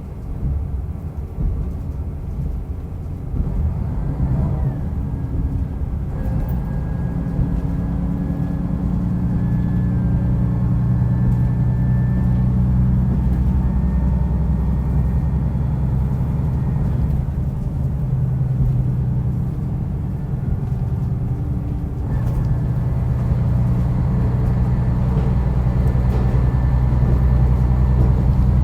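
Diesel railcar running under power, its engine note and wheel rumble growing louder from about four seconds in as the train gathers speed. The engine eases off a little near the middle, then pulls harder again toward the end.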